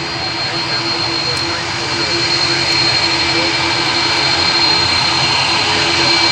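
Airbus A330-300 jet engines running, a steady noise with a high whine, growing a little louder.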